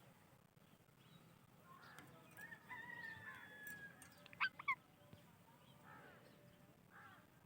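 Psittacula parakeets chirping softly: a drawn-out wavering call about two seconds in, two short sharp chirps close together a second or so later, then fainter calls near the end.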